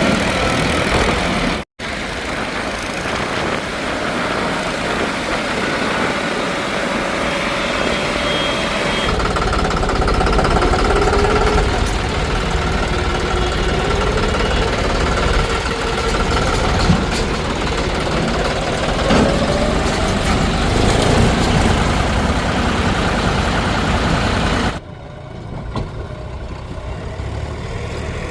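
Heavy diesel machinery at work, with engines running and changing pitch as they rev under load. The sound breaks off for an instant about two seconds in and becomes quieter near the end.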